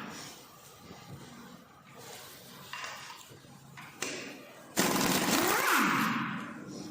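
Electric impact wrench spinning off the hub motor's axle nut: a sudden burst of about a second and a half near the end, after a couple of light tool clicks.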